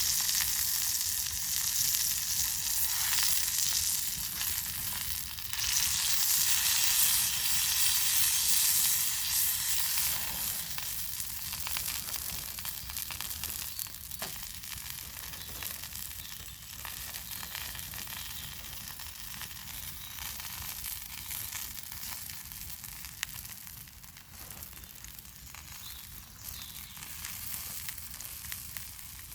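Bacon, sausages and hash browns sizzling in a pan over a campfire. The sizzle is loudest for the first ten seconds or so, then fades gradually, with a few faint ticks.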